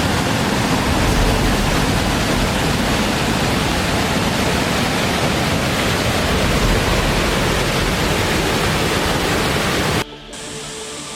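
Waterfall rushing, a loud, steady roar of falling water that cuts off abruptly about a second before the end, where quieter music begins.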